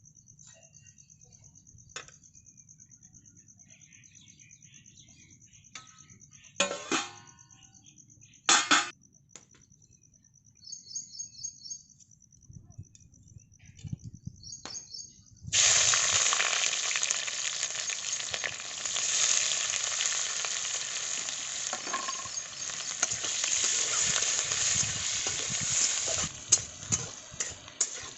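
Food going into hot oil in a cooking pot about halfway through, setting off a loud sizzle that lasts about ten seconds and then drops to lighter crackling and a few clinks of stirring. Before that, a faint, high, rapidly pulsing chirr with a couple of knocks.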